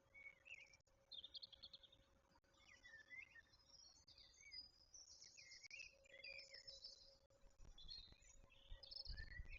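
Faint birdsong: short trills and swooping chirps come one after another, over a steady faint hum. A low rumble comes in near the end.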